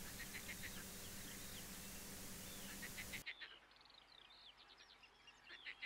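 Faint songbirds singing in short chirps and trills over outdoor background noise. About three seconds in, the background hiss drops away abruptly while the birdsong carries on.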